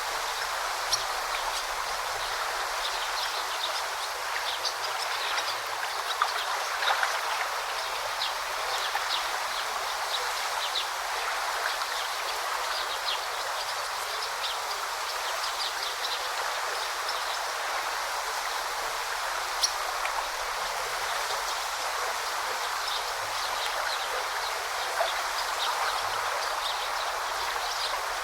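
A brook flowing and babbling steadily, with many brief, high little splashes and plinks of water through it.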